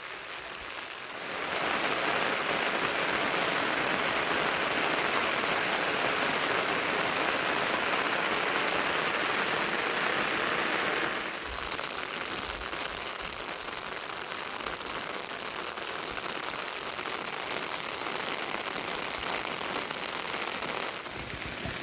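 Steady rain falling. It grows louder and heavier about a second and a half in, then drops back to a lighter, steady patter at about eleven seconds.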